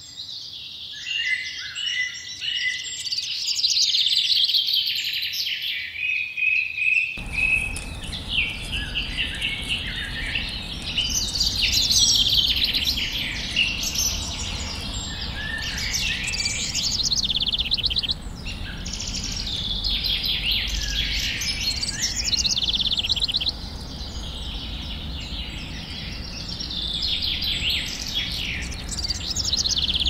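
Several birds singing and chirping together, a dense mix of quick high trills and calls. About seven seconds in, a steady low background rumble comes in under the birdsong.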